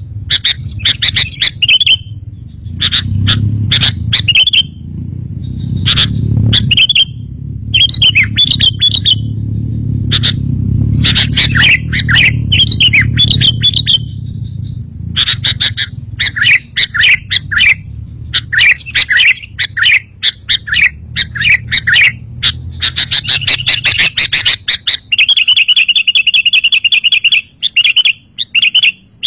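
Sooty-headed bulbuls (kutilang) singing and chattering in quick runs of short, liquid chirping phrases. A low rumble sits underneath for much of it, and a fast, even trill comes near the end.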